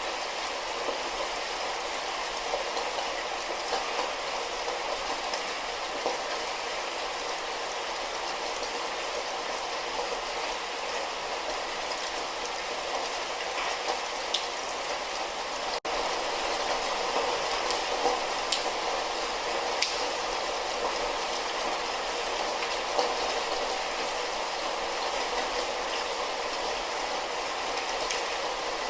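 Light rain falling steadily, an even hiss with scattered louder drip ticks. It drops out for a split second about halfway, as at an edit or loop point, then carries on slightly louder.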